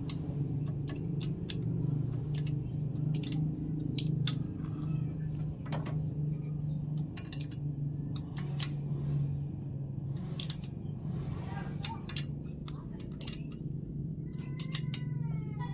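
Metal hand tools clinking and tapping on metal, a dozen or more sharp clicks, over a steady low hum.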